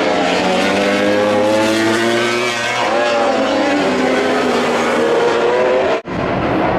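MotoGP racing motorcycles' four-stroke engines running at high revs, their pitch holding, then shifting as the bikes rise and fall through the gears. The sound cuts out abruptly about six seconds in, then resumes as a rougher, less tonal engine noise.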